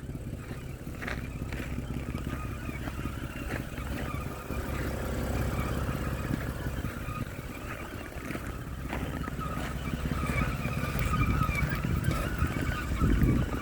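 2011 BMW X3 engine running with a wavering whine over its low running sound, stronger in the second half. It is an intermittent whine from the engine area whose cause the owner cannot find.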